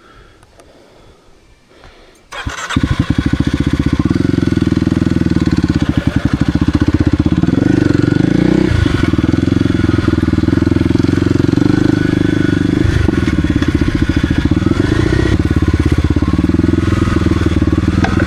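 Kawasaki KLX300R's single-cylinder four-stroke engine starting about two seconds in, then running steadily with a rapid even beat.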